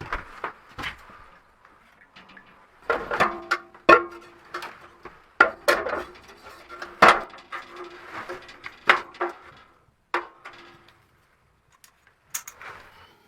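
Hard objects knocking and clattering irregularly, as if being handled and set down. Several of the strikes ring briefly at one pitch, like a pot or pan. It goes quiet for a moment near the end, then one last short clatter.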